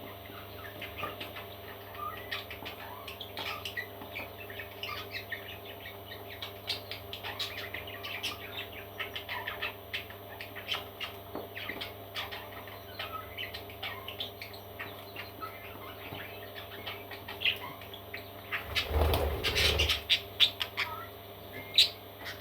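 Parrot chicks cheeping in many quick, short chirps, with a brief louder rustling flurry about nineteen seconds in, over a low steady hum.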